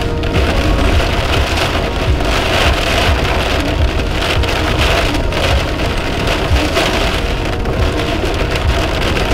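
Heavy rain beating on a car's windshield, heard from inside the moving car, with a steady low road rumble underneath.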